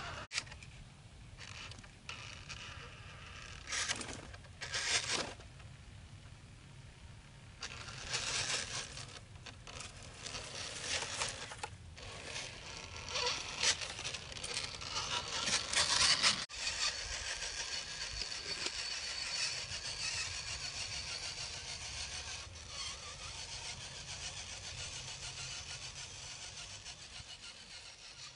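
Radio-controlled scale truck driving over dirt and rocks: irregular crunching and scraping under its tyres, loudest about halfway through, with a steadier faint whine in the second half that fades out at the end.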